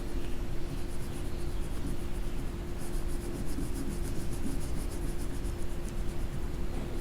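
Rapid back-and-forth scribbling of a coloring tool on paper, strongest from about three seconds in, over a steady low hum.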